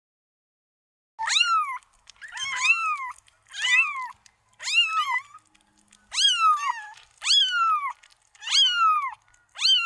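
Domestic cat meowing repeatedly: about eight meows a little over a second apart, each rising and then falling in pitch, starting about a second in.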